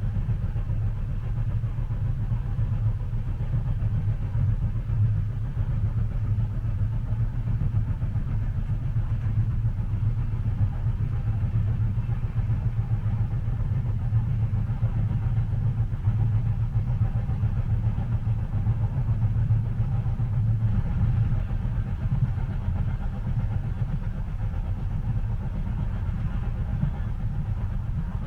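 Train running, heard from inside a passenger cabin: a steady low rumble with an even hiss above it.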